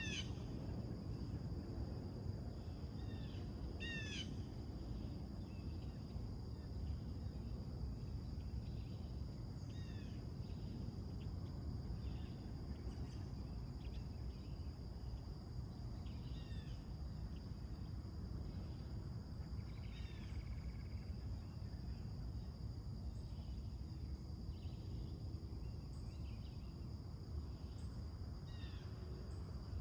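Songbirds calling in short, repeated chirps, a cluster near the start and again about four seconds in, then scattered single notes. Behind them run a steady high-pitched hum and a constant low rumble.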